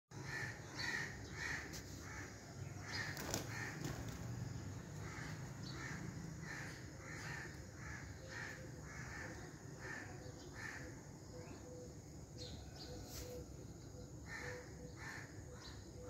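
A bird calling over and over in a steady series, about two short calls a second, pausing for a couple of seconds before it resumes near the end, over a faint low hum.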